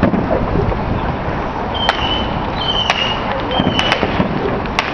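Fireworks going off: a string of sharp cracks over a dense, steady background rumble, three of them led into by a short high whistle.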